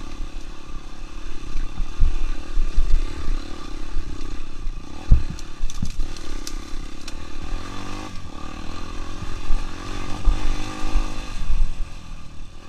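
Yamaha XTZ 125's single-cylinder four-stroke engine, with an aftermarket Protork exhaust, running as the bike rides a rough dirt trail, its pitch rising and falling with the throttle, mixed with low thumps.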